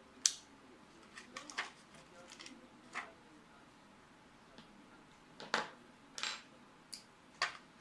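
Irregular sharp clicks and light knocks of small hard parts and tools being handled while working on a PC ATX power supply: about seven or eight separate taps, some in quick pairs.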